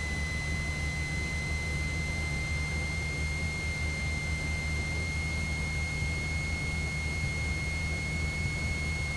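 Cessna 172's piston engine and propeller running steadily in flight, heard from inside the cabin as an even low drone, with a steady high-pitched whine over it.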